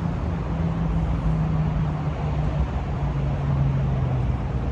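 A car engine running at low revs, a low steady hum that sinks slightly in pitch over a few seconds.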